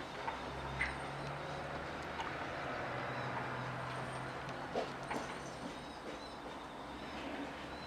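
Steady low background hum with a few faint short clicks and ticks, about a second in and twice around five seconds.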